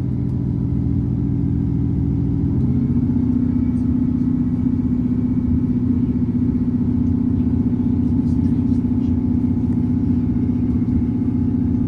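Diesel multiple unit's underfloor engine running under power, heard from inside the passenger carriage as the train moves. Its steady drone shifts about two and a half seconds in from a lower note to a higher one, which then holds.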